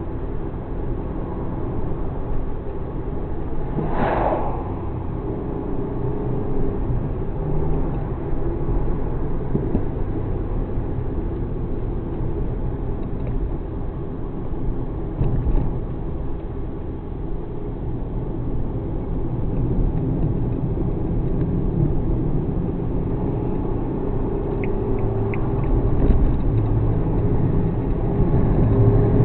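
Suzuki Alto Works HA36S running on the road: a steady low engine drone with road rumble and no revving, and a brief noisy whoosh about four seconds in.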